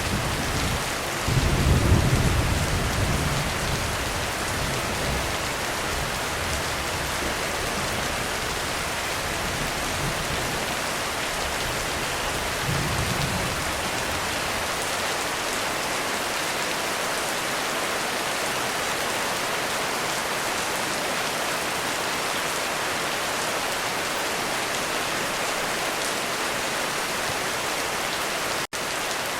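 Heavy rain pouring steadily on a roof, with thunder rumbling in the first few seconds and a fainter rumble later. The rain carries on alone after that, broken once by a momentary gap near the end.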